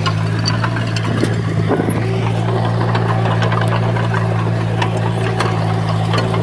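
Heavy construction machine's diesel engine running at a steady speed, with many short knocks and clanks scattered through it.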